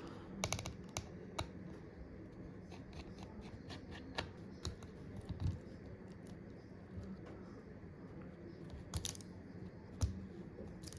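Small hand tools clicking and tapping on the opened phone's internal parts during disassembly: irregular sharp ticks, a quick cluster near the start and a louder pair of clicks about nine seconds in.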